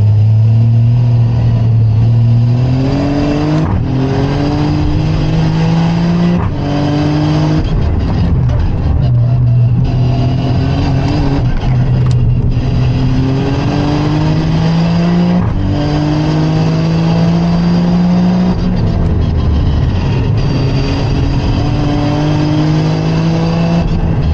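Toyota car's engine heard from inside the cabin, driven hard on a track. Its pitch climbs steadily through each gear and drops sharply at each of many gear changes.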